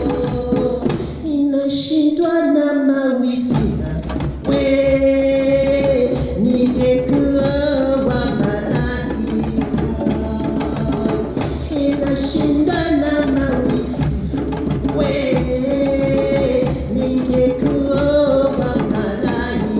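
A choir singing in harmony over steady hand-drum percussion. The drums drop out for about two seconds near the start, leaving only the voices, then come back in.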